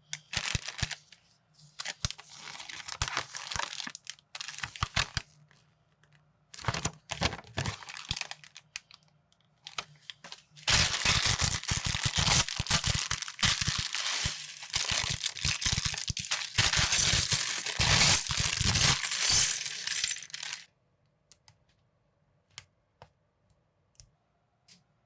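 Plastic parts bags of building bricks crinkling and being torn open, in bursts and then a long unbroken stretch, with small pieces rattling. A few faint clicks follow near the end.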